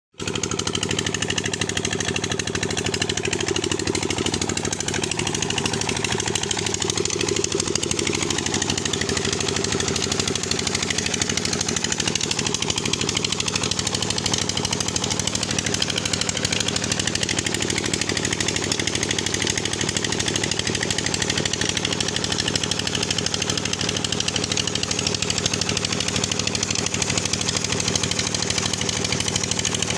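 Stationary diesel engine driving a tubewell pump, running steadily with a fast, even knocking beat.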